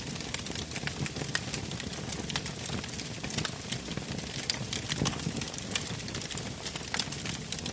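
Wood campfire crackling with irregular sharp snaps. Damp wood laid on top is drying out and slowly burning through.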